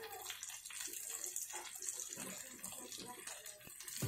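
Chillies, onion and spice paste sizzling in a frying pan, with irregular scraping strokes as a silicone spatula stirs them.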